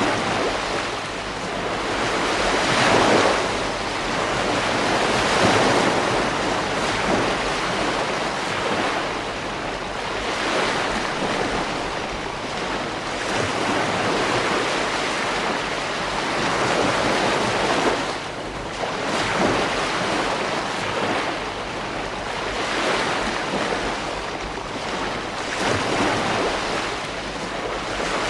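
Ocean waves breaking on a beach, a steady wash of surf that swells every few seconds as each wave comes in.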